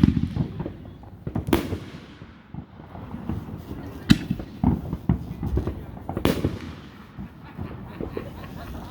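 Fireworks display shells bursting: four sharp bangs, at the start, about a second and a half in, about four seconds in and about six seconds in, each trailing off in a rumble, with scattered small crackles between.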